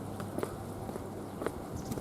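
Footsteps of a person walking, a sharp step sound roughly once a second, over a steady low background hum.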